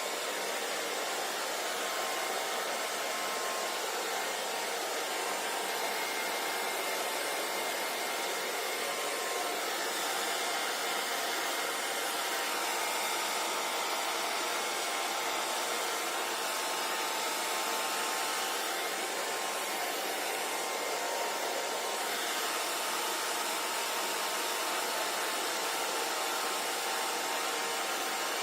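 Hair dryer running steadily, a constant rushing blow of air with a faint motor whine, drying wet hair.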